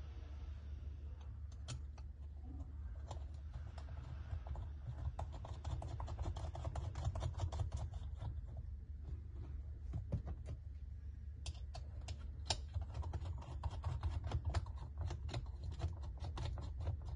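Irregular light clicks and taps of small steel EDM tooling parts being handled and fitted together, over a steady low hum.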